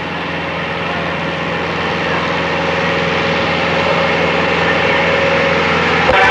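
Competition pulling tractor's engine running hard under heavy load as it drags the brake sled down the track, slowly getting louder.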